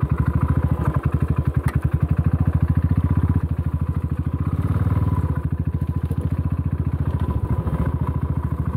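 Royal Enfield Classic 500's single-cylinder engine running as the motorcycle is ridden along at low speed, its exhaust beating in an even, rapid pulse that swells a little around the middle.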